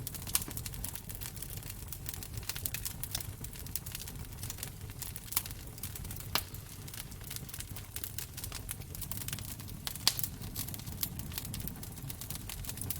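Wood fire crackling in a fireplace: a constant run of small snaps and pops over a low rumble, with a few sharper pops, the loudest about ten seconds in.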